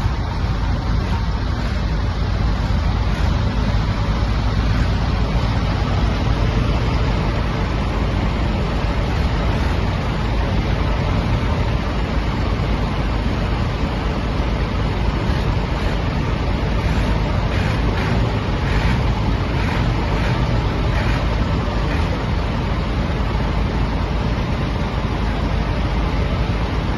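A loader backhoe's diesel engine running steadily.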